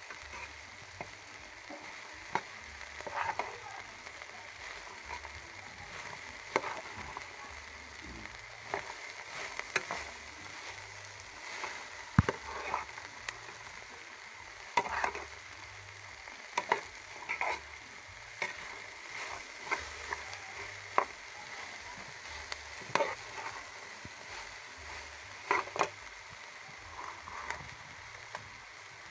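Sliced okra frying in hot oil in a pot with a steady sizzle, while a spoon stirs it, knocking and scraping against the pot every second or two; the sharpest knock comes about twelve seconds in.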